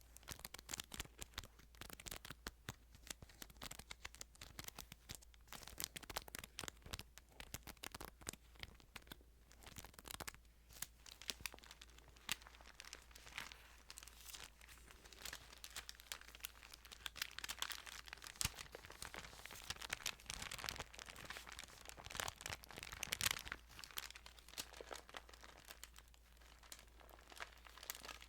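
Thin Bible pages being handled and turned: a dense run of soft paper crinkles and rustles, busiest about two-thirds of the way through, with one sharper crackle near the end.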